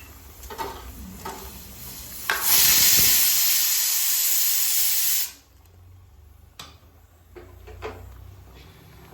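Food sizzling loudly in hot oil. The sizzle starts suddenly a couple of seconds in and cuts off abruptly about three seconds later, with a few light knocks before and after it.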